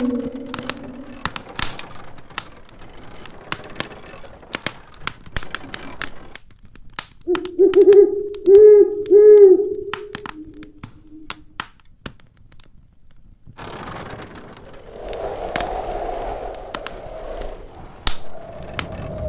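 Wood fire in a fireplace crackling and popping, with snowstorm wind howling in wavering tones, loudest about eight to ten seconds in and rising again near the end.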